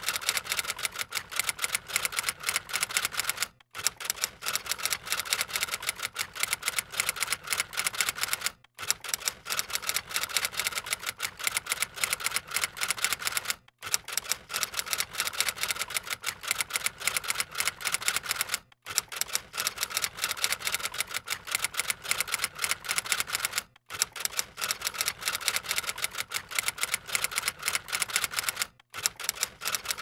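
Rapid typewriter keystroke clicks, a looped sound effect that breaks off for a moment about every five seconds.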